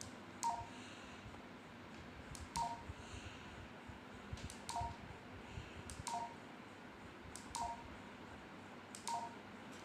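Baofeng UV-5R handheld radio giving six short key beeps as its buttons are pressed, each beep a quick high tone stepping down to a lower one, with the click of the button.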